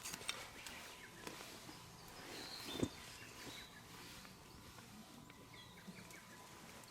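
Faint outdoor ambience in which a bird calls briefly about halfway through. A single sharp knock comes during the call, and a few light clicks sound near the start.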